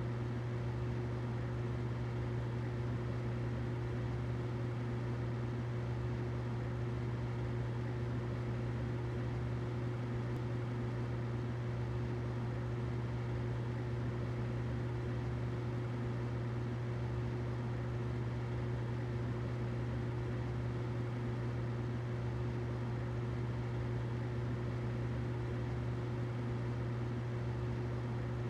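Humidifier running: a steady low hum with a fainter higher tone over an even hiss, unchanging throughout.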